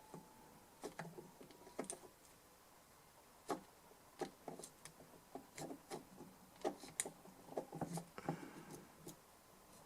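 Irregular small clicks and taps of hand tools working on a small DI box, most frequent in the second half.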